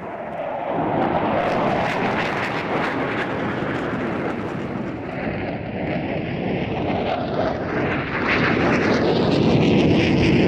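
Jet noise from a pair of RAF Tornado GR4s flying low and fast. The roar swells about a second in and is at its loudest near the end.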